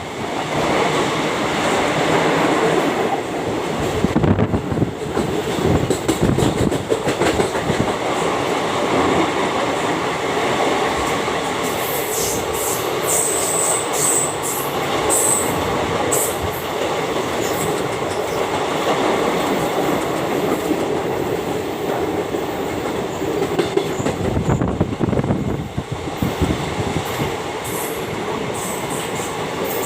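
Train running on the rails with a steady rumble and clickety-clack of wheels over rail joints, with brief high-pitched wheel squeals around the middle.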